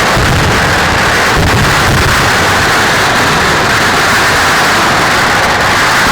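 Dense fireworks barrage at close range: firecracker blasts follow so fast that they merge into one continuous loud noise with low thuds underneath.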